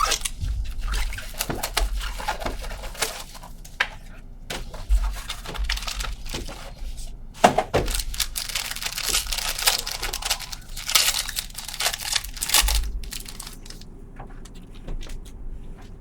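Card packaging being handled and torn open: plastic wrapper crinkling and tearing, with rustling and scattered small clicks and knocks of cardboard.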